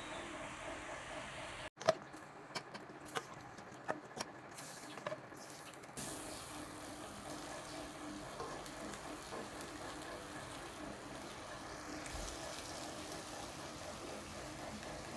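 Diced pork frying in a wok, a steady sizzle. It is stirred with a wooden spatula that knocks against the pan several times in the first few seconds. The pork is being fried until its liquid dries off and it browns.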